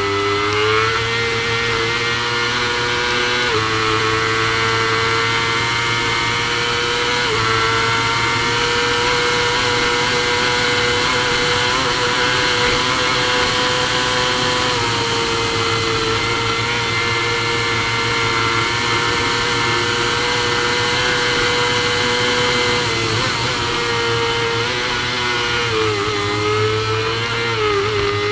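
Supersport racing motorcycle engine at full throttle, heard from an onboard camera over wind rush. The revs climb through quick upshifts in the first several seconds and hold high at top speed through the middle. Near the end the pitch drops through several downshifts as the bike brakes.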